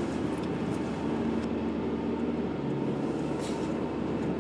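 Car engine and tyre noise heard from inside the cabin while driving, a steady hum whose pitch drops about two and a half seconds in.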